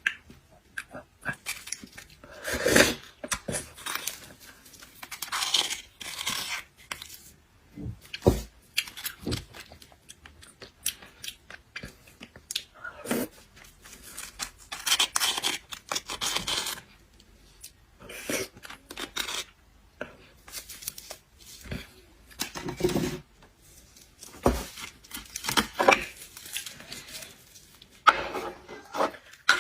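Close-up eating sounds of seafood: irregular bursts of chewing, slurping and shell or flesh tearing, with short pauses between them.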